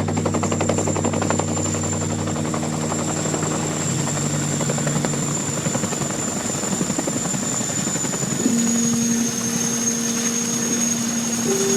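RAF CH-47 Chinook tandem-rotor helicopter running loud, with its two turboshaft engines and rotors sounding together. A rapid chop of rotor blades in the first few seconds blends into a steady rush. A high turbine whine runs throughout and dips slightly in pitch near the end.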